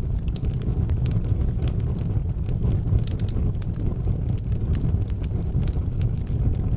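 Outdoor wood fire burning, with frequent irregular sharp crackles and pops over a steady low rumble.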